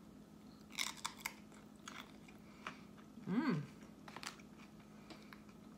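A person biting into and chewing a raw hot banana pepper with a mouthful of lasagna: a cluster of crisp crunches about a second in, then a few scattered crunches, with a short hummed "mm" midway.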